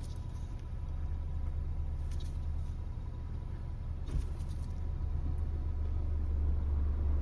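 A car engine idling steadily, a low even hum, with a couple of faint clicks about two and four seconds in.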